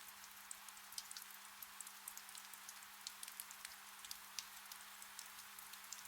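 Gentle rain falling steadily, a soft hiss scattered with many small drop ticks.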